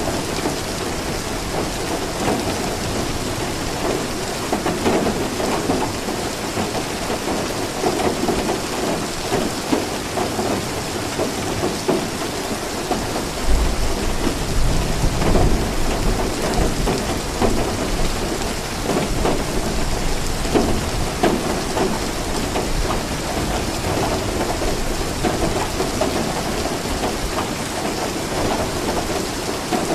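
Steady heavy rain falling, with a low rumble of thunder rolling through about halfway.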